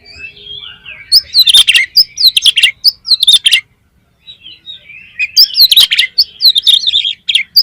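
Oriental magpie-robin singing loudly: two long bursts of rapid, varied whistles and chatter, with softer twittering before each.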